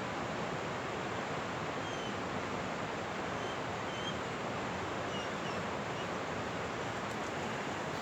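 Steady rushing of river water, with a bird chirping faintly several times in the middle.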